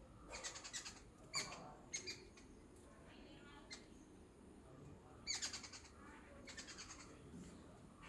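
Birds chirping and trilling in short, faint bursts, several calls a second or so apart, with a longer gap in the middle.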